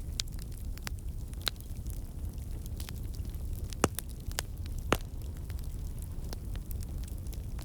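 Wood fire burning in a fireplace: a steady low rumble of the flames with irregular sharp crackles and pops. Two louder pops come about a second apart near the middle.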